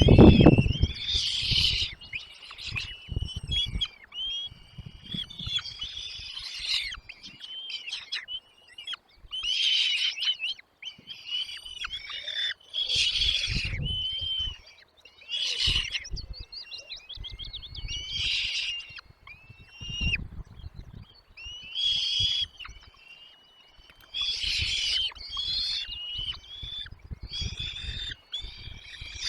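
Nestling songbirds calling in bursts of shrill chirps every second or two, mixed with low thumps and rustles from the nest.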